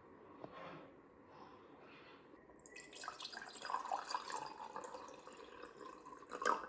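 Water running from a tap into a sink, turned on a little under three seconds in and shut off sharply near the end.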